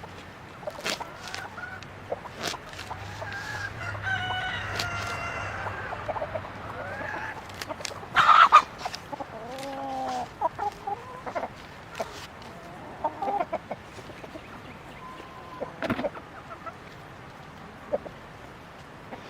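Chickens: a rooster crows one long call starting about three seconds in, and hens cluck. A brief loud harsh burst about eight seconds in is the loudest sound. Short sharp clicks are scattered throughout.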